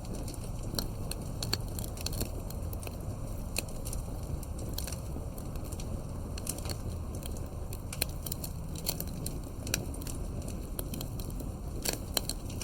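Wood campfire crackling: irregular sharp pops and snaps, several a second at times, over a steady low background noise.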